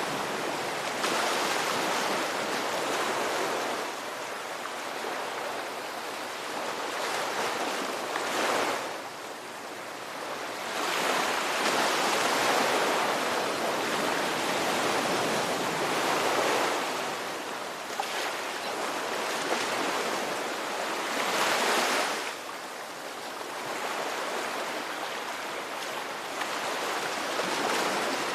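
Ocean surf: waves break and wash in as a continuous hiss, swelling and easing every several seconds, with about four surges.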